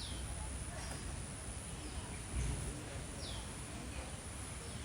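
A bird calling outdoors: short, high, falling whistled notes repeated every second or so, over a steady high-pitched background drone and a low rumble.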